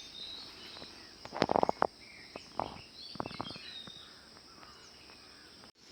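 Rural outdoor ambience: a steady high buzz of crickets and insects with scattered bird chirps. It is broken twice, about a second and a half in and again about three seconds in, by clusters of loud, rapid, sharp clicking sounds.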